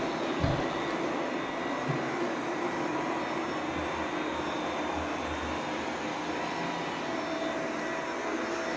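Robot vacuum cleaner running with a steady whir of fan and brushes, with two short low thumps in the first two seconds.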